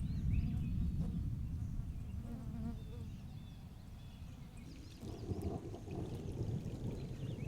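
Low rumble of thunder that slowly fades away over about four seconds; about five seconds in, a steady rushing noise rises.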